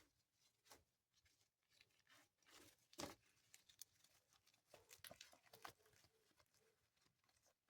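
Faint rustling and handling of clothing as garments are sorted and searched, with a few soft clicks and one slightly louder rustle about three seconds in.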